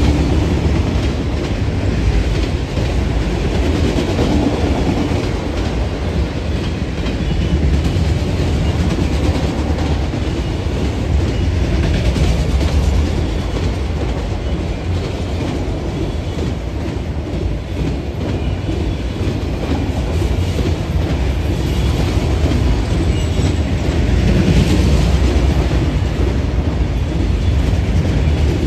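Train rolling past, its wheels clattering steadily over the rails with a heavy low rumble.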